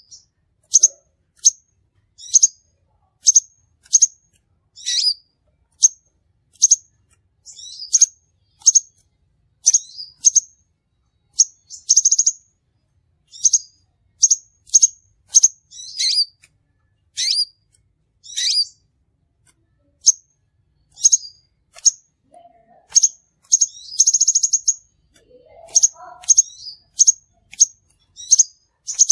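Crimson sunbird calling: a steady series of short, sharp, high chirps, about one or two a second, broken twice by a brief buzzy rattling trill, the second one longer, near the end.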